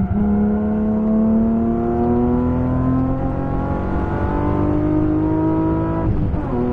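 BMW M3 E36's 3.2-litre straight-six accelerating hard, heard from inside the car, its pitch rising steadily through a gear. About six seconds in the engine note breaks and drops for an upshift, then climbs again in the next gear.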